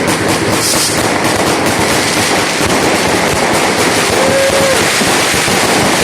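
Fireworks and firecrackers going off all around at once: a dense, continuous crackle of rapid overlapping bangs. A short tone briefly rises and falls about four seconds in.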